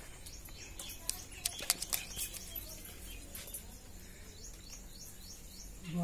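Faint short falling bird chirps in the middle, after a cluster of sharp clicks in the first two seconds, over a quiet steady background.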